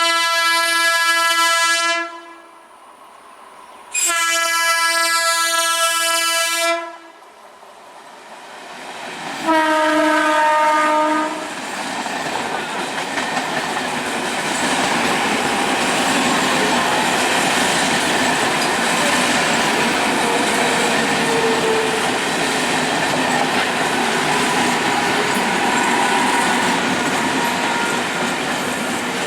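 An Indian Railways electric train sounds its horn in three long blasts, the third a little lower in pitch. Then the train runs past with a steady, loud rush of wheels on rails.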